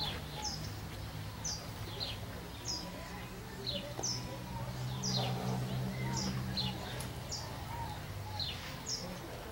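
Small birds chirping: short, high, falling notes repeated roughly once or twice a second, over a low steady hum.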